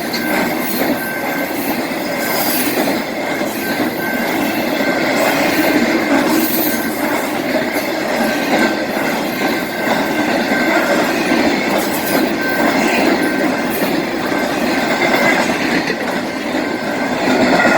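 BNSF intermodal freight train rolling past close by: a steady, loud rumble and clatter of cars on the rails, with a thin high squeal held from the wheels.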